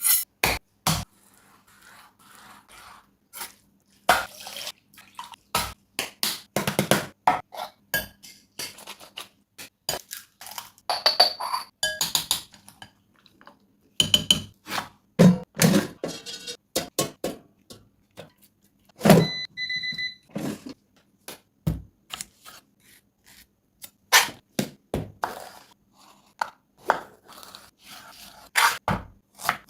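Kitchen cooking sounds: a string of thuds, knocks and scrapes of utensils and pans. Around twenty seconds in there are two short electronic beeps.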